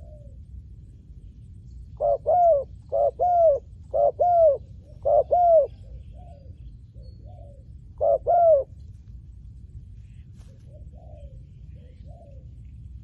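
Spotted dove cooing: a loud run of two-part coos about once a second, a pause, then one more near the end of the run. Fainter coos from another dove answer in between.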